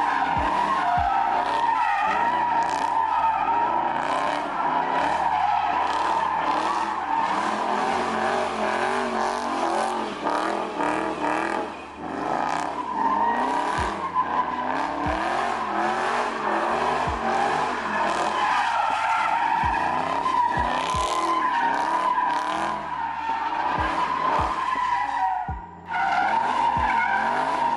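Car drifting: tires squealing in a long, wavering screech over the engine revving up and down. The squeal breaks briefly about twelve seconds in and again near the end.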